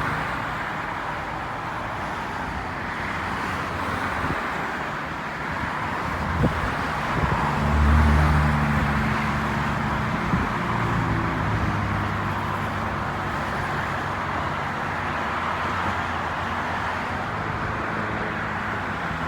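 Steady road traffic noise from nearby cars, with one vehicle's engine hum swelling louder about eight seconds in as it passes, then fading.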